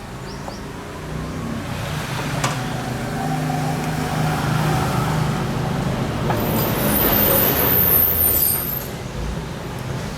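A motor vehicle's engine running, growing louder over the first few seconds, with a brief high squeal from about six to nine seconds in.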